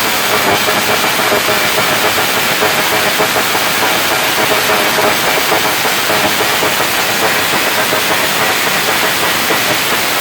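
Vehicle engine held at high revs through a loud exhaust, a steady harsh rush with a wavering engine note and no let-up.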